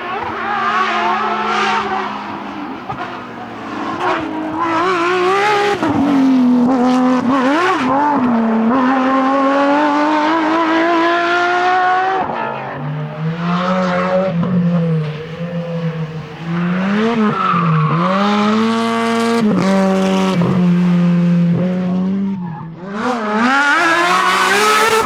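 Rally car engines at full throttle. The pitch climbs and drops sharply at each gear change, and the engines are heard through a series of passing and cornering runs, with tyre squeal in the corners.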